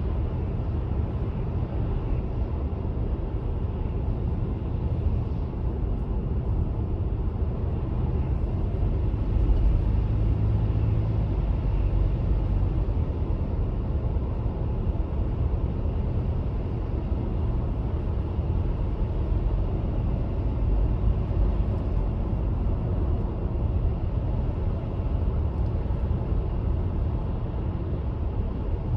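Car driving, a steady low rumble of road and engine noise that swells slightly about ten seconds in.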